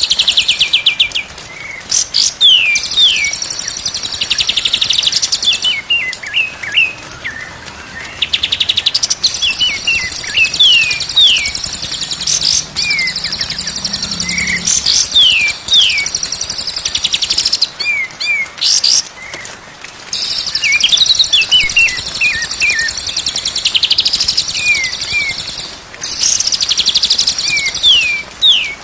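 White-rumped shama song: phrases of short, sharply falling whistles alternating with long, high, fast trills, repeated throughout.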